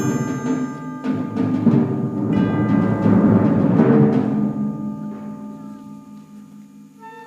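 School concert band playing a loud passage with timpani strikes under held chords, swelling and then dying away over the last few seconds. A quiet woodwind line comes in at the very end.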